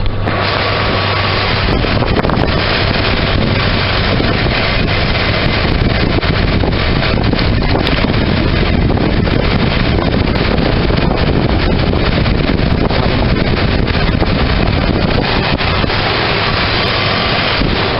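2002 Ford Ranger's 3.0 L Vulcan V6 idling with a miss on cylinder 4, heard close at the exhaust, so the exhaust gusts on the microphone as a loud, rough rush with irregular pops. The miss comes from a coil pack that got wet in the rain.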